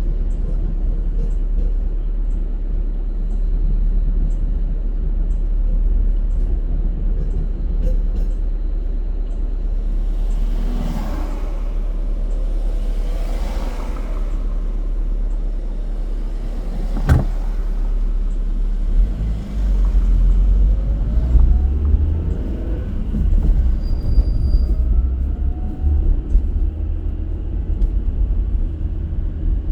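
Car driving through city traffic: steady low road and engine rumble, with another vehicle swelling past about ten seconds in and a sharp click a few seconds later. From about two-thirds of the way through, the low engine rumble grows louder, rising and falling in pitch.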